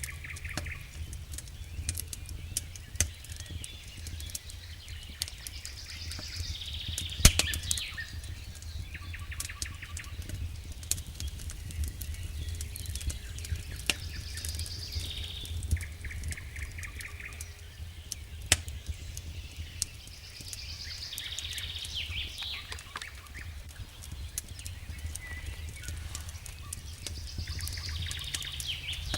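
Wood fire burning in a fireplace, crackling with scattered sharp pops, the loudest about 7 seconds in, over a steady low rumble. Short chirpy trills come back every several seconds.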